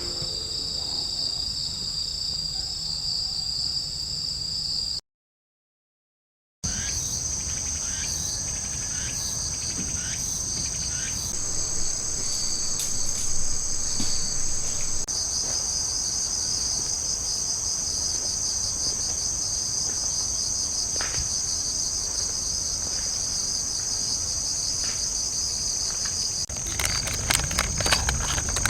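Crickets and other night insects chirring steadily at a high pitch, with scattered crackles from firewood burning in a fire pit that grow thicker near the end. The sound drops out to silence for about a second and a half, about five seconds in.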